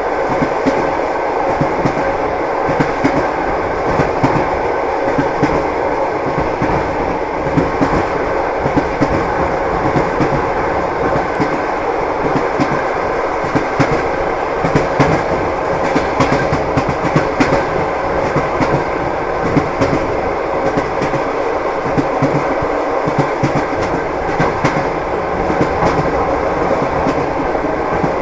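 Train wheels clacking over the rail joints, heard from inside a moving passenger car: a steady rumble with frequent small clicks.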